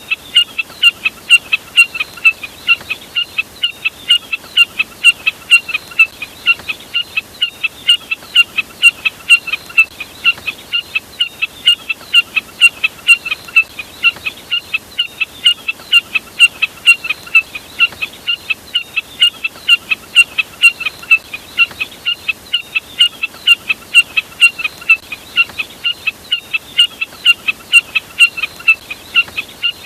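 Snipe call sold as a jack snipe lure recording: short, sharp notes repeated about three times a second in a steady, unbroken series.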